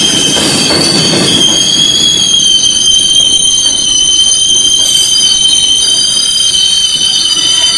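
R142 subway train's steel wheels squealing against the rail, a loud, steady, high-pitched squeal made of several held tones, with the rumble of the train dying away in the first second or so.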